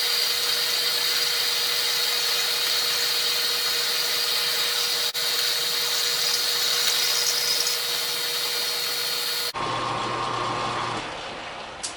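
Metal lathe taking the final cut on a steel workpiece: a steady machining sound with a constant high whine. It stops sharply about nine and a half seconds in, and a fainter hum then fades out.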